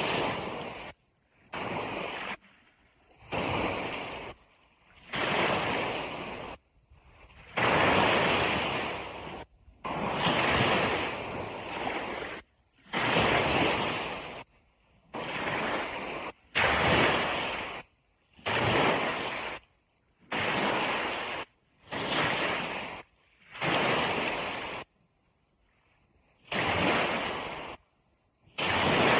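Ocean surf washing on a beach, heard as a series of short hissing rushes that switch on and cut off abruptly, about one every one to two seconds, with near silence between them.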